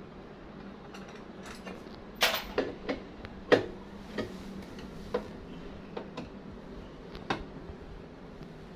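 Irregular clicks and clinks of small hard objects being handled, about a dozen spread over several seconds, the loudest about three and a half seconds in, over a faint steady hum.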